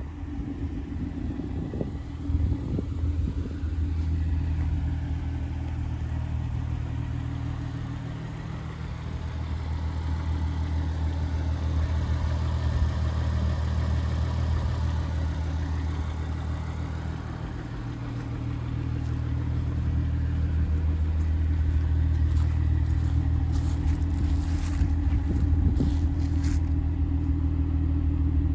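2003 VW Jetta GLI's 2.8-litre VR6 engine idling steadily just after a cold start, with a low, even hum that dips a little in level twice.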